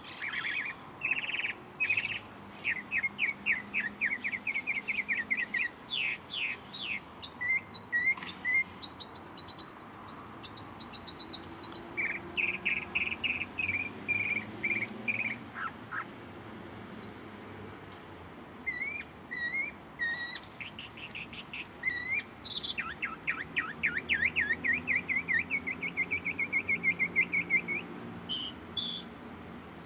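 Songbirds chirping and singing in runs of quick, high, repeated chirps and trills, with short pauses between runs.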